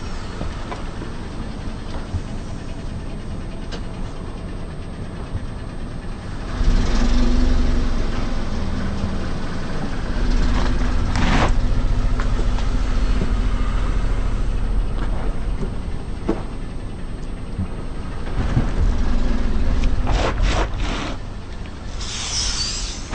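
A car's engine running and its tyres rolling slowly, the low rumble swelling a few times. A handful of sharp cracks and snaps come through, a cluster of them near the end, as objects under the tyres break.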